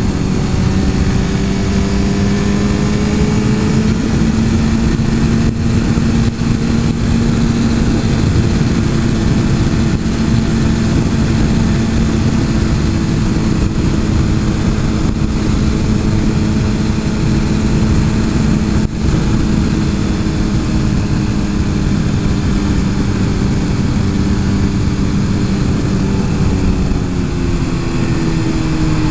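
Suzuki GSX-R 1000 superbike's inline-four engine running at a steady road speed, over heavy wind rush. The engine note climbs slightly in the first few seconds, holds, and drops near the end as the throttle comes off.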